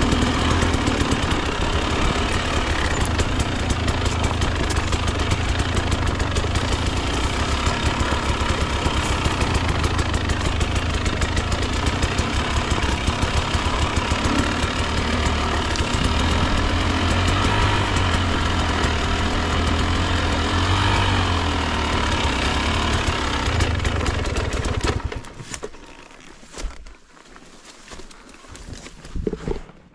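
Two-stroke dirt bike engine, a Husqvarna TE 300, running with a rapid, uneven rattle as it works along a single-track trail, then stopping abruptly about 25 seconds in. Only faint, scattered sounds follow.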